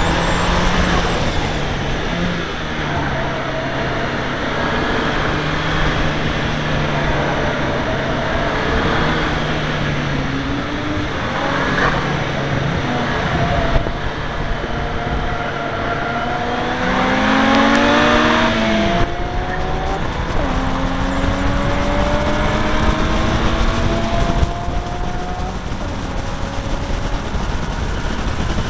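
Seat Leon Cupra R's turbocharged four-cylinder engine under hard acceleration, its pitch rising in a run of climbs that each drop back at an upshift, over constant wind and road rush. A louder burst of rushing noise comes in for about two seconds past the halfway point.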